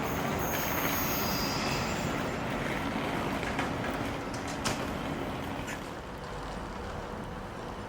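A train running on the rails, with a high-pitched wheel squeal in the first two seconds or so and a few sharp clicks, the rumble slowly fading.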